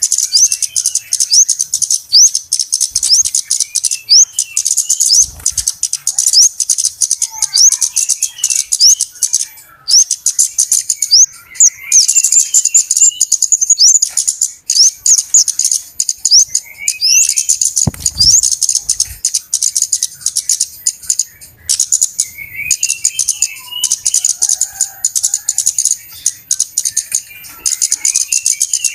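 Flowerpeckers (cabe-cabean) calling excitedly as a flock, a continuous run of sharp, high, rising chips, several a second, over softer lower twittering.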